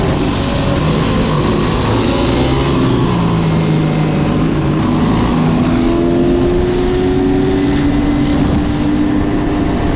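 Motorbike engine running under way during a ride, its pitch slowly rising and falling with the throttle, over a steady rush of road and wind noise.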